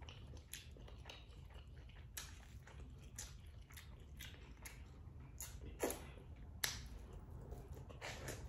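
Faint close-up eating sounds of a person chewing boiled corn on the cob: a run of short wet clicks and mouth smacks, two of them louder a little past the middle.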